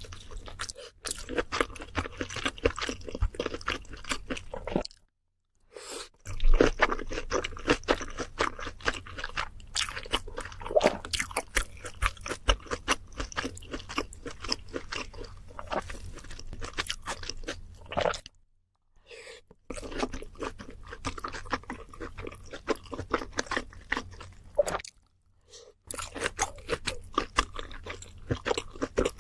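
Close-miked eating: crisp fried food such as tempura, tonkatsu and fried chicken crunching between the teeth, with steady chewing. The crunching stops briefly three times, about five, eighteen and twenty-five seconds in.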